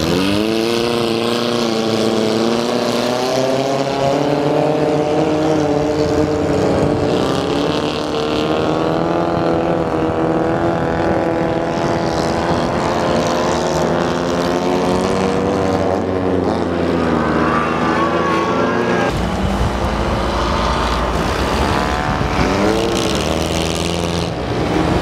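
Engines of several race cars on an ice track, revving hard with pitch rising and falling as they accelerate and lift through a turn. A sharp rev rises right at the start, and a low rumble joins about two-thirds of the way through as cars come close.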